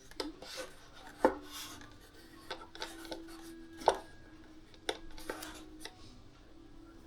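Hands working at a bench on a foam plane repair: rustling and scraping, broken by several sharp clicks and knocks, the loudest about a second in and again about four seconds in.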